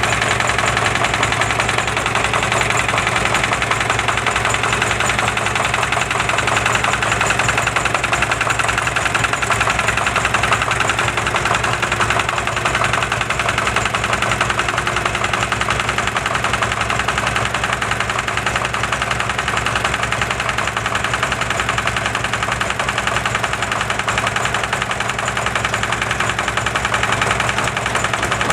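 Vintage stationary diesel engine running steadily, with a fast, even knocking beat.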